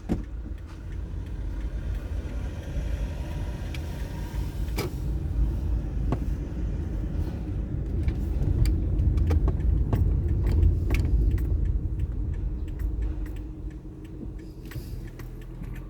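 Car engine and road noise heard from inside the cabin while driving, a steady low rumble, with many small clicks and rattles from loose items in the car. The noise grows louder through the middle and drops off near the end as the car slows.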